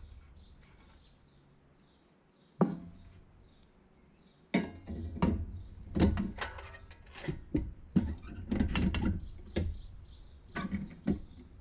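Irregular knocks, clicks and clatter of hard objects being handled: one sharp knock a few seconds in, then a quick run of knocks through the second half.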